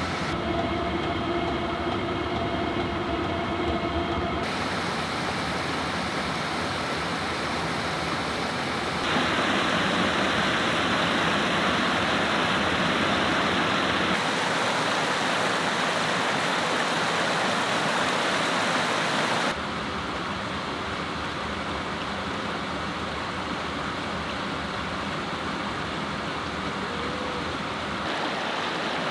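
Steady rush of a waterfall and river, its loudness and tone shifting abruptly every few seconds. In the first few seconds a steady hum with a few held tones sits under the water.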